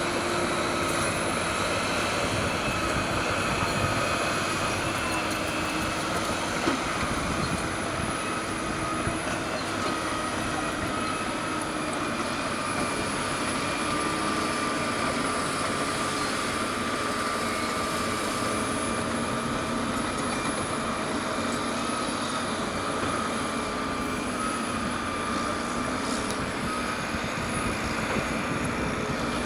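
Caterpillar D6R crawler dozer working while pushing dirt: the diesel engine runs steadily under load, its pitch drifting up and down, with a steady high whine above it.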